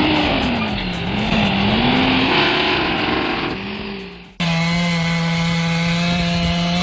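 A small engine running hard, its pitch dipping and climbing back as under load, then fading away; after an abrupt cut about four seconds in, a steady, unchanging drone holds to the end.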